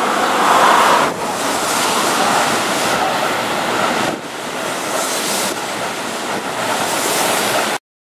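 Keihan 3000 series limited-express train running past close by along the platform: a steady rush of wheel and air noise, loudest in the first second. It cuts off abruptly near the end.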